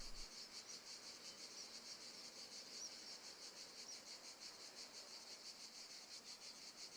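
Crickets chirping faintly in a steady, rapid, even rhythm.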